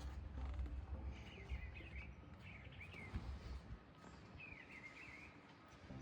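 A songbird chirping in three short, quick phrases, with a low rumble during the first couple of seconds.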